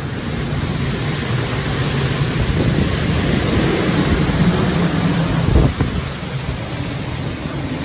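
Hurricane-force wind blowing and gusting across the microphone, swelling through the middle, with a single knock about five and a half seconds in.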